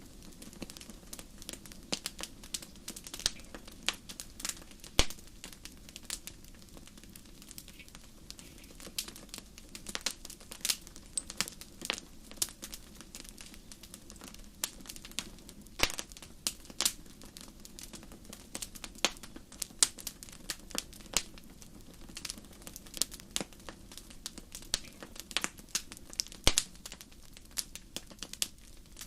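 Campfire crackling: burning wood giving irregular sharp pops and snaps, several a second and some much louder than others, over a faint steady low rumble.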